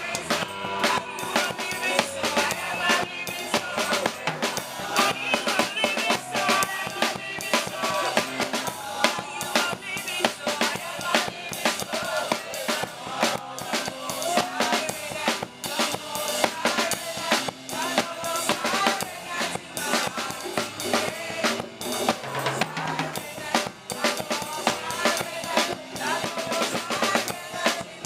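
Gospel music from a band with a drum kit, the kick and snare keeping a steady beat under a wavering melody.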